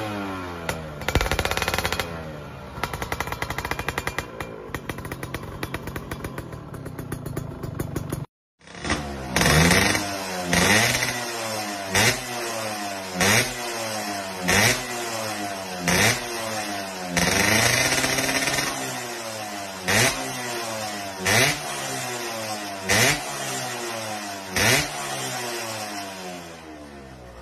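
Yamaha F1ZR's two-stroke engine through a KEN2 racing exhaust, revving. After a short break about eight seconds in, it is blipped again and again, rising and dropping back to idle about once every one and a half seconds.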